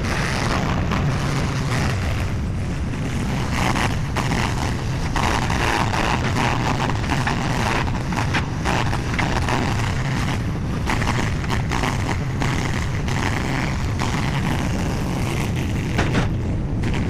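SCL850 skid steer's engine running steadily at working speed while the grapple handles concrete chunks, with a few sharper knocks near the end.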